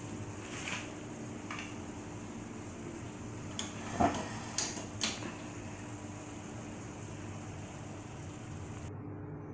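Kitchen cookware sounds: a handful of short clinks and knocks, as of a utensil against a pan or dish, loudest about four seconds in, over a steady hum.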